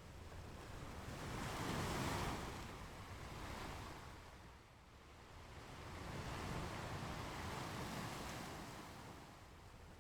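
Ocean waves breaking and washing onto a beach: a rushing surf noise that swells and fades twice, loudest about two seconds in and again from about six to eight seconds.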